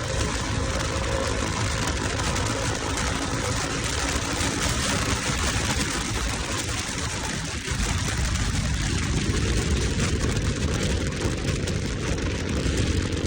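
Motorcycle engine running under way, with a steady rush of wind noise. The engine note dips briefly about halfway through, then climbs again.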